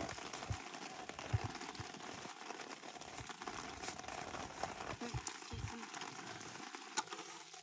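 Steady rain pattering, with a few sharp clicks.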